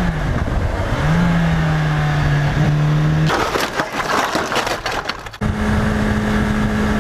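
Motorcycle engine running at a steady pitch that dips and settles, then a burst of crunching, cracking impacts from about three and a half to five seconds in, typical of a crash. After a sudden change, a steady engine tone runs again.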